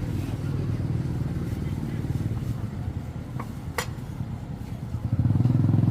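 A small engine running steadily with a fast, even pulse, growing louder about five seconds in. There is a single sharp click near the middle.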